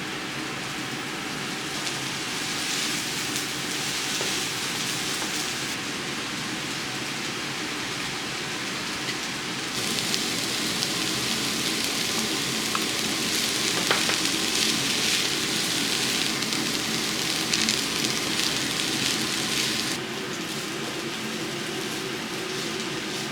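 Vegetables sizzling in hot oil in a frying pan, a steady crackling hiss that grows louder for about ten seconds in the middle, with a few light clicks.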